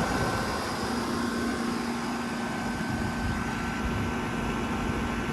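2005 Goodman CKL 2-ton air conditioner running steadily, its Copeland reciprocating compressor and condenser fan giving a constant hum with a steady tone; a low hum comes in about a second in. The unit is running normally and already cooling.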